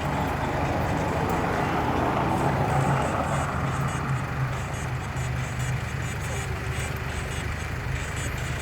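A motor engine running steadily with a low hum, under a continuous noisy background.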